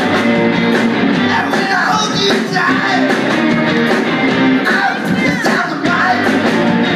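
Rock band playing with a singer: guitars, drums and vocals in a loud rock and roll song.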